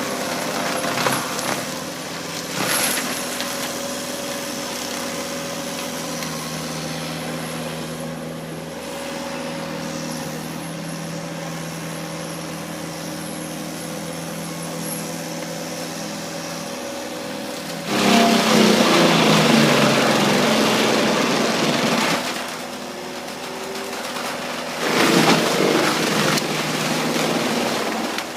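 Skid steer engine running steadily with a forestry mulching drum. Twice in the second half, a louder, rougher stretch lasting a few seconds comes in, as the drum works into material.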